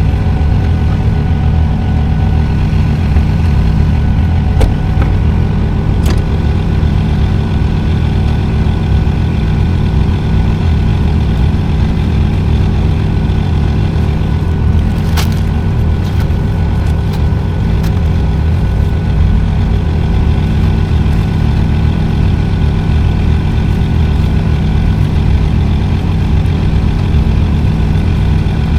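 Truck engine idling steadily with a constant low rumble, with a few light clicks over it.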